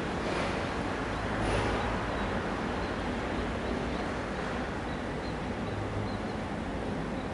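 Distant East Rail line electric train running on the tracks: a steady low rumble under an even roar. Faint, short, high chirps repeat from about two seconds in.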